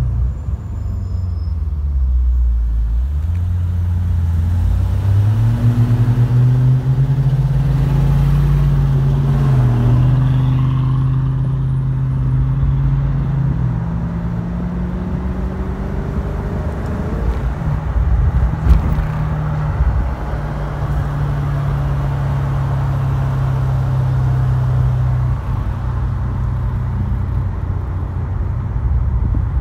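Maserati GranSport Spyder's 4.2-litre V8 heard from inside the cabin while driving at moderate revs. Its note falls in the first couple of seconds, climbs as the car picks up speed, then holds steady, dipping again near the end, with one brief knock about two-thirds of the way through.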